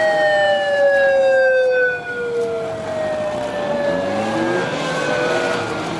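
Police motorcycles sounding, several pitched tones falling slowly over a few seconds, with shorter rising glides near the middle.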